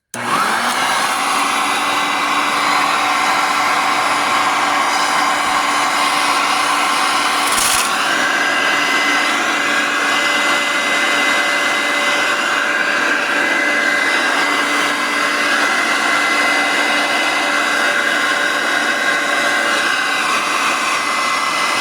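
Hoover Concept 1 upright vacuum cleaner switched on and running with a loud steady motor whine, its brush roll removed so only the suction motor is heard. A brief knock sounds about eight seconds in.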